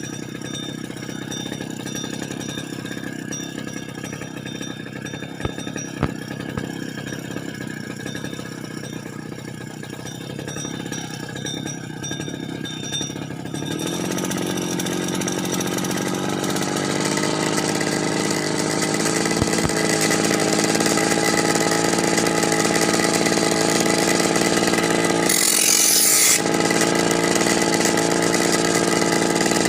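Small two-stroke brush cutter engine running steadily at low speed, then revved up about fourteen seconds in and held at higher speed. A short hissing burst comes near the end.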